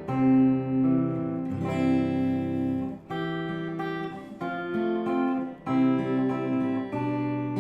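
Acoustic guitar music: chords played with held notes and a bass line, changing about every second.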